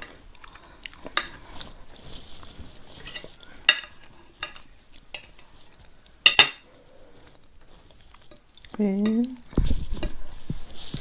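Fork and knife clinking and scraping on a plate during a meal, in scattered sharp clicks. Near the end there is a short wavering hum and a low thump.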